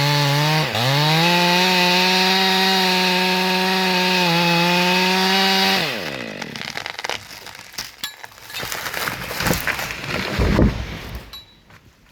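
Stihl chainsaw running at high revs in a cut, dipping briefly about a second in, then its revs falling away about halfway through. Cracking and rustling follow, with a heavy thud near the end as the felled tree comes down.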